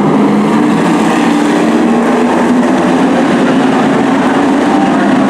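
Race trucks' engines running on the track, a loud, steady engine drone.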